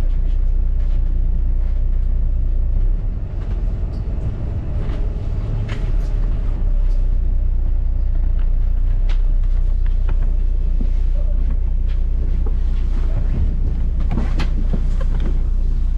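Double-decker bus in motion, heard from inside: a steady low rumble with occasional rattles and knocks.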